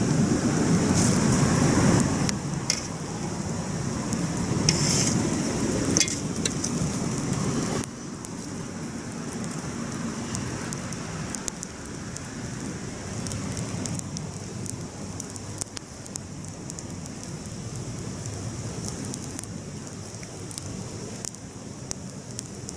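Wood campfire burning, crackling with sharp pops over a low rushing noise. The rushing is louder at first and drops sharply about eight seconds in, and the pops then become sparser.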